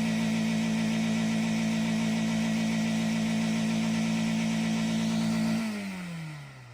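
Car engine revved and held at a high, steady speed while no gear engages, the sign of a slipping transmission. Near the end the revs fall away and the sound drops off.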